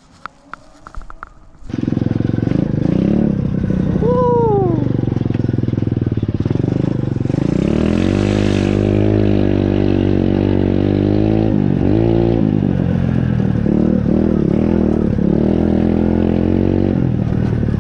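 Pit bike engine starting up suddenly about two seconds in, after a few light clicks and knocks. It then runs loudly, its pitch rising and falling as the throttle is worked.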